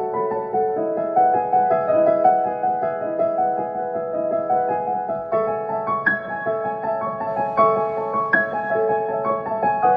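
Background music: gentle solo piano playing a slow melody over chords.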